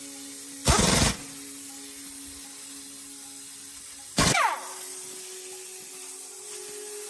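Two short, loud bursts from a power tool, each about half a second long, the second about three and a half seconds after the first and ending in a falling whine. Steady background music plays throughout.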